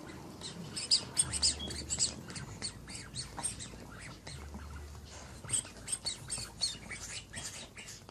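Rapid, high-pitched bird chirping and squawking, several short calls a second.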